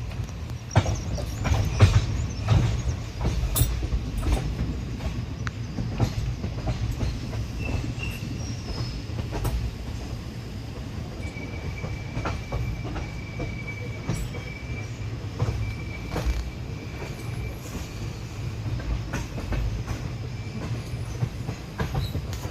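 Train running along the track: a steady low rumble with irregular clicks and clacks of the wheels over the rails. In the second half a faint, steady high squeal holds for several seconds.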